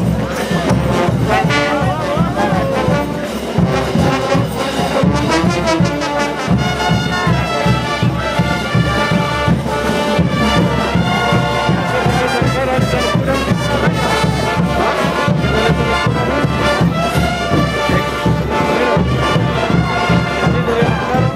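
Brass band playing diablada music: trumpets and trombones over a steady drum beat, loud and continuous.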